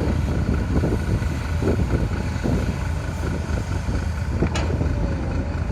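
Heavy diesel machinery running steadily, an excavator and a dump truck at work loading soil, with a low rumble throughout and a sharp click about four and a half seconds in.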